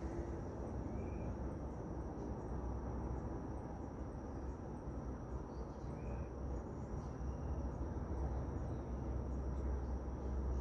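Outdoor ambience with a steady high-pitched insect trill, a low rumble underneath, and a short faint call twice.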